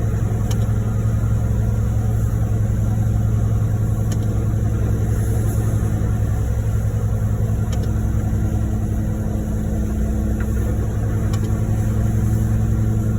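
Heavy diesel truck engine running at a steady speed, a constant low hum with no change in pitch.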